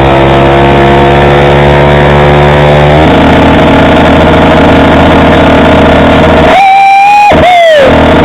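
Motorcycle engine running under way, holding a steady pitch and then dropping lower about three seconds in. Near the end a high held tone sounds twice over thinner engine noise, the second time falling in pitch.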